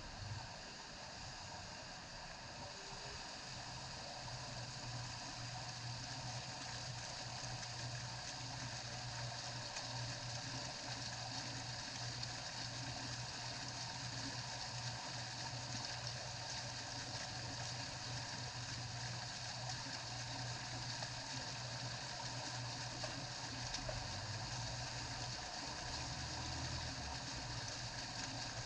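Steady rain pouring down, a continuous hiss of falling water, over a low steady hum.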